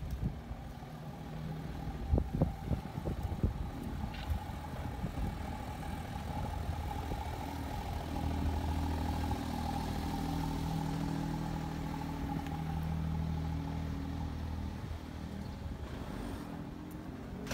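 A car engine running steadily with a low hum, loudest through the middle stretch, over a thin steady whine. A few sharp knocks come about two to three seconds in.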